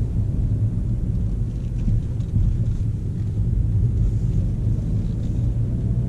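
Steady low in-cabin rumble of a 2015 Volkswagen Golf GTE on the move: its 1.4-litre turbo petrol engine is running to recharge the hybrid battery in Battery Charge mode, with tyre and road noise.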